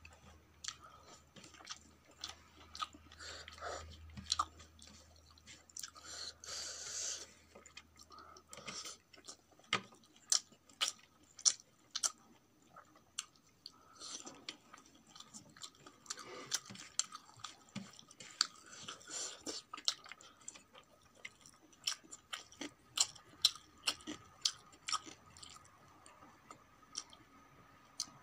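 Close-miked chewing of rice and cooked vegetables eaten by hand, with many short, sharp mouth clicks and smacks.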